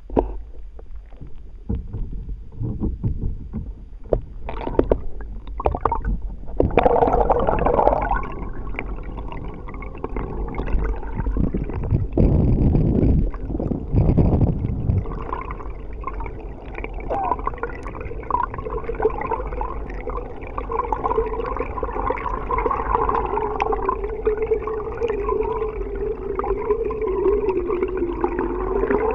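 Water gurgling and sloshing around an underwater camera in its housing, with irregular knocks over the first several seconds, then a steady wavering hum.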